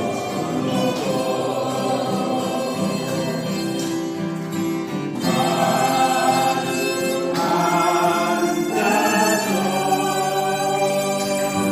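A song sung with musical accompaniment, the voice holding long notes.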